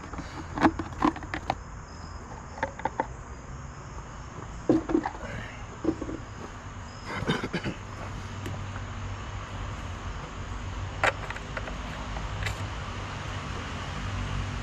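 Scattered sharp clicks and knocks over a low steady hum that slowly grows louder, with insects chirping in the background.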